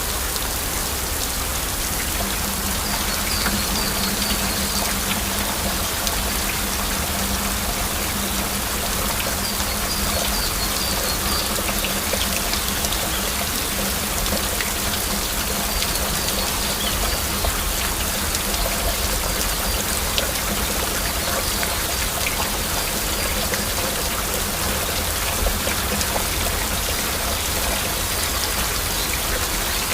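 Heavy rain falling steadily, a dense, even patter of raindrops with no break.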